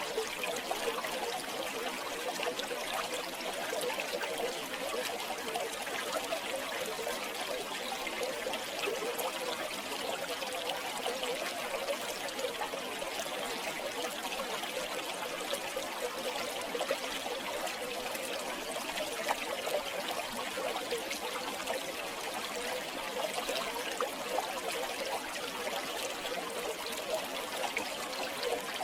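River water flowing and trickling steadily over stones, a continuous babbling with small splashes throughout.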